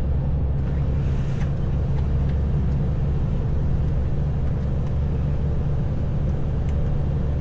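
Heavy truck's diesel engine and road noise heard from inside the cab while driving: a steady low drone that does not change.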